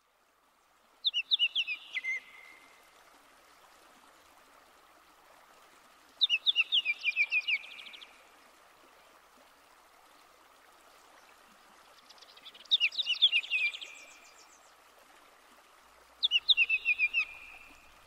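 A songbird singing four short, loud phrases several seconds apart, each a quick run of high notes lasting about a second, over a faint steady hiss like distant running water.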